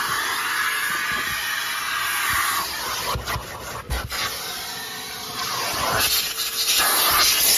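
1997 Numatic Sir Henry vacuum cleaner running, its suction rushing and changing in strength as the nozzle rubs and scrapes over the car's surfaces, with a few knocks of the nozzle a little before halfway.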